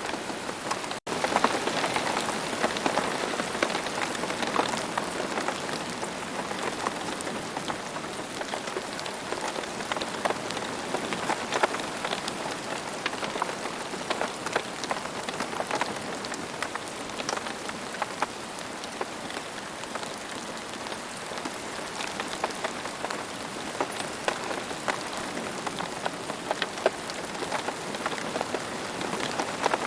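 Steady rain, many separate drop hits over a continuous hiss. The sound cuts out for an instant about a second in.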